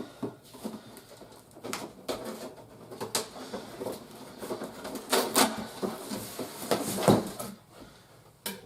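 Cardboard toy box and plastic packaging being handled and opened: irregular rustling, crinkling and clicks, busiest a little past the middle.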